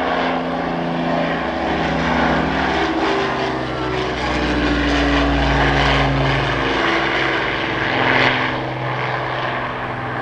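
The Avro Lancaster's four Merlin piston engines droning steadily, several slightly different engine pitches drifting against one another.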